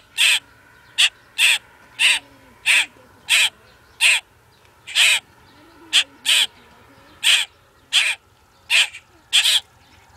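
Baby birds squawking: a long, steady string of short, harsh squawks, roughly one every half second to second.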